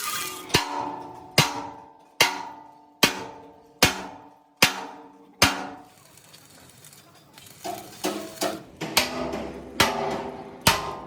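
Hammer blows on steel plate, each ringing and dying away. Seven come evenly, a little under a second apart; after a brief pause a quicker, less regular run of blows follows.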